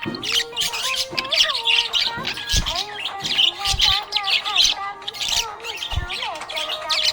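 Budgerigars chattering: a rapid, continuous stream of high chirps and squawks, with lower gliding warbled tones beneath.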